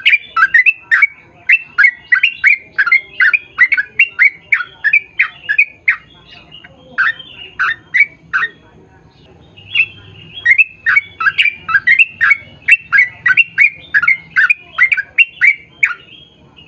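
Yellow-vented bulbul (trucukan) singing a long, rapid run of short, bubbly chattering notes, about two to three a second. The song pauses briefly about halfway through, then picks up again.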